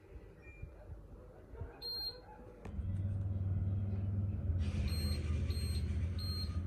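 Akari mini split air conditioner beeping: a single short high beep, then a steady low hum comes on. About two seconds later a run of short high beeps follows, roughly one every two-thirds of a second, over a rushing hiss.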